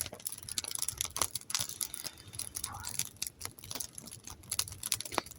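Wood fire crackling: irregular sharp clicks and pops over a low background hiss.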